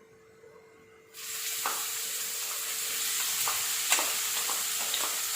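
Crushed onion going into hot coconut oil in a pan: a loud sizzle starts suddenly about a second in and keeps going, with scattered clicks of a spatula stirring against the pan.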